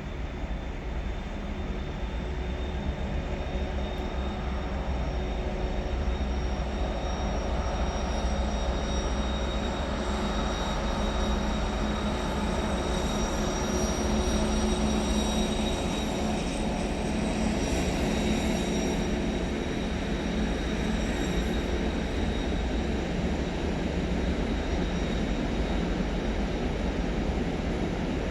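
Soviet-built 'Ludmilla' diesel locomotive with a freight train, its engine giving a steady deep drone under a thin high whine. The sound grows louder over the first several seconds, then holds steady.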